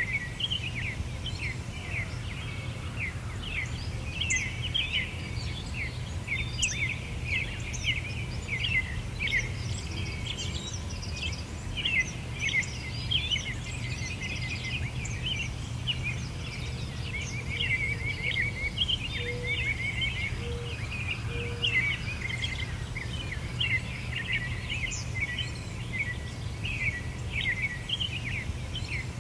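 Songbirds chirping continuously in a dense chorus of quick, high notes, over a steady low rumble.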